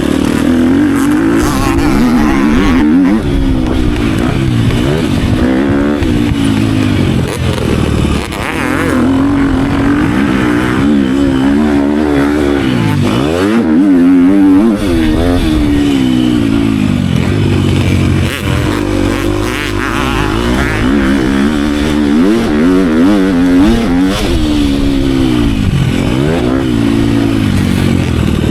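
Motocross dirt bike engine revving hard and backing off again and again as it is ridden around a track, its pitch repeatedly climbing and then dropping sharply, with wind noise over it.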